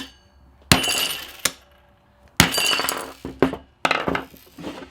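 Hammer blows on a big screwdriver driven into a hard-disk platter: three heavy strikes and a few lighter knocks, the louder ones ringing briefly with a metallic, glassy clink.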